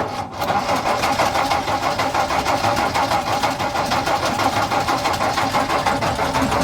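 1962 Ford F-350's engine cranking over steadily on the starter without catching, to get the new mechanical fuel pump to draw fuel up to the carburettor.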